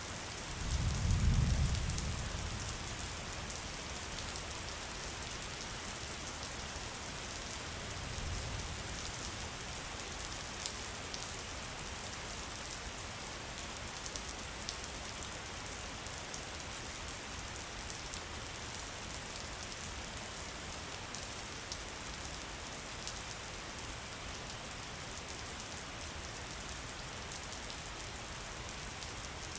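Steady rain falling on a surface, with scattered individual drops ticking through it. A low rumble swells about a second in, and a weaker one comes around eight seconds.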